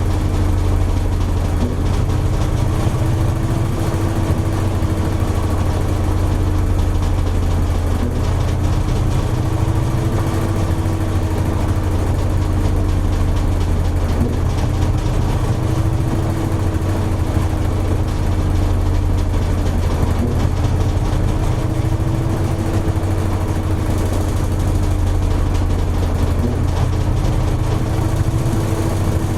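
Toshiba AW-42SEE4(S) fully automatic washing machine spinning its drum at speed near the end of its standard course. It makes a steady low hum with a higher tone that slowly wavers up and down.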